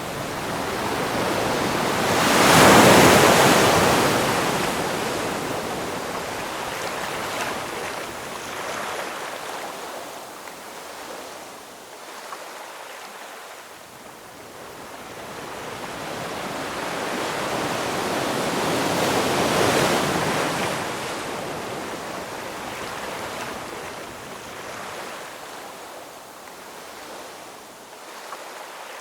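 Ocean surf: waves breaking and washing back, with two large waves cresting, one about three seconds in and another about twenty seconds in, each swelling up and slowly fading.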